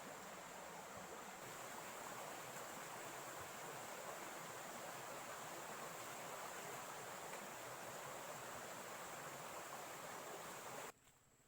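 Faint steady rushing noise, with a thin high whine running through it, cutting off abruptly near the end.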